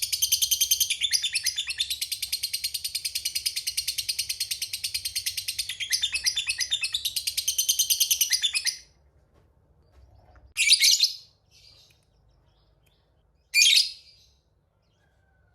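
Lovebird giving a long 'ngekek' chattering trill, a rapid unbroken run of high, harsh notes that stops about nine seconds in. Two short, sharp single calls follow a few seconds apart.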